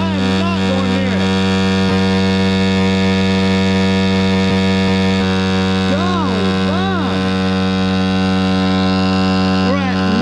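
Amazon pit bike's small engine held flat out at a constant high speed, a loud steady drone with no change in pitch, being run wide open on purpose to blow the motor.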